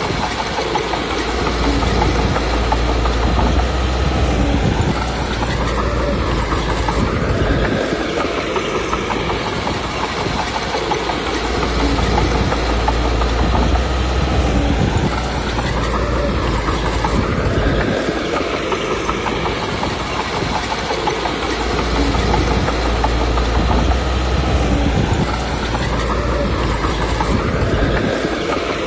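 Komatsu D21P bulldozer working: its diesel engine running under load with the clanking of its steel tracks, the sound swelling and easing in a repeating cycle about every ten seconds as the machine pushes and backs up.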